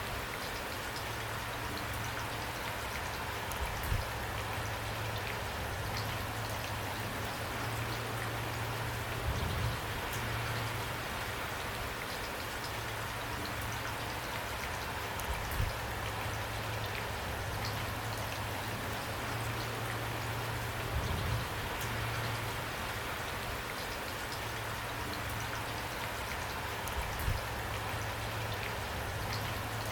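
Steady rain falling and pattering on a surface, an even hiss of drops. Brief louder drops or hits stand out about every six seconds, over a low background rumble.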